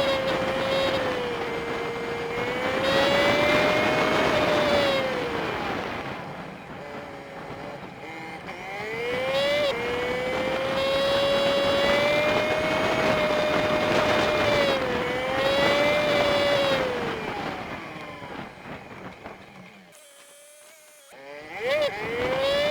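Honda Super Cub 50's small single-cylinder engine with wind and road noise, heard through a dashcam sped up five-fold, so it comes out as a high, whining engine note. The pitch climbs and falls again and again as the bike shifts through its gears, dips briefly near the end and then picks up again.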